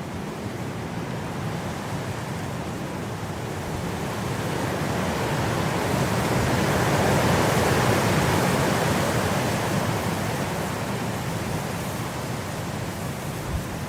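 Blizzard wind blowing in a steady rush, one gust swelling to its loudest about halfway through and easing off again.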